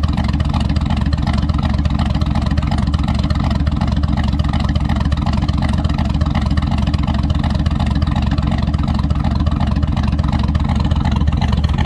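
GM LS truck V8 with a Brian Tooley Racing Truck Norris camshaft idling in gear at about 660 rpm with a choppy, lopey cam idle, breathing through stock exhaust manifolds and a muffler delete. The chop comes in a steady, even pulse.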